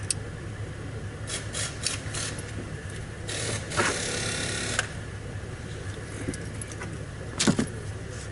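Handling noises while working on the car's wiring: a few light clicks, a rustling scrape lasting about a second and a half, and a sharp knock near the end, over a steady low hum.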